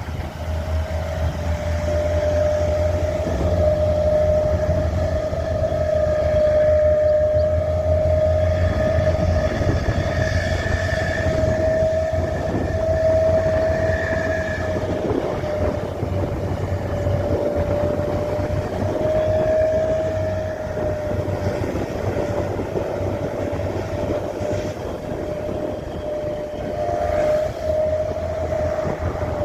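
Truck under way: a low engine rumble with a steady, high-pitched whine that wavers slightly in pitch.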